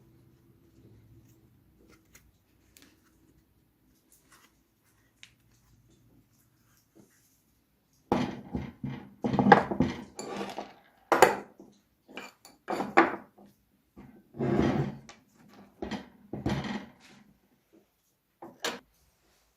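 Metal parts being handled on a workbench: a few faint ticks, then from about eight seconds in a run of irregular clattering and scraping knocks, with one sharp clink near the end.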